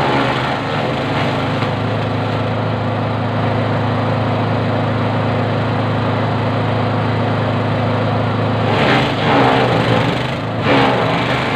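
Motorized grass chopper running with a steady drone. About three-quarters of the way through it turns louder and rougher in uneven surges.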